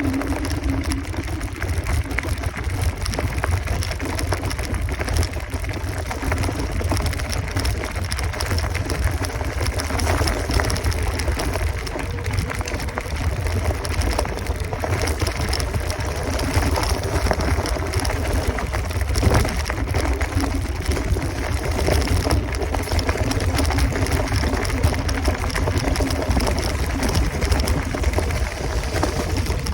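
Wind rushing over the microphone, with road noise, while riding an electric scooter. A steady low whine fades out just after the start and comes back near the end.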